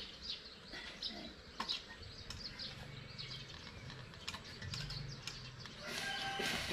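Small birds chirping faintly in the background, with a few light clicks and a short rustle near the end.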